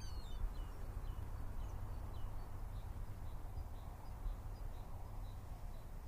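Outdoor ambience: a low steady rumble with faint, short bird chirps repeating about twice a second.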